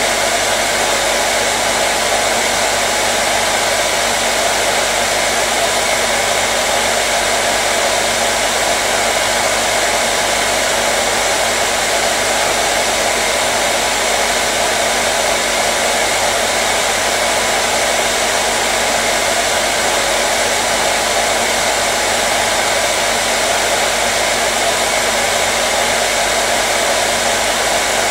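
Electric hair dryer running steadily: a continuous even blowing noise with a faint motor hum.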